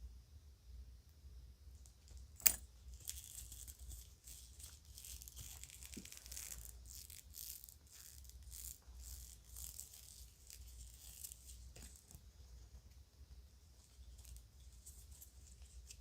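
Children's jewelry being handled: a sharp click about two seconds in, then several seconds of light rattling and clinking, thinning out to a few small ticks near the end.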